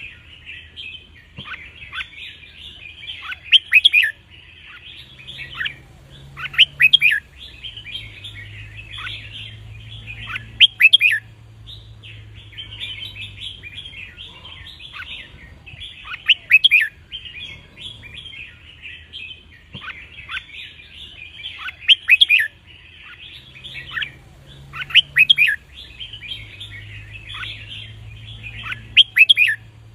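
Red-whiskered bulbuls singing: a constant chatter of bird notes, broken every few seconds by a louder cluster of sharp, quick notes.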